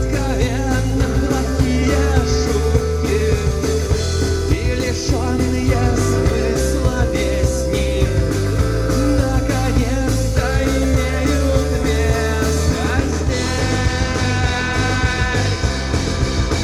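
Rock band playing live, loud and steady, in a psychedelic-rock style with a heavy bass and drum low end.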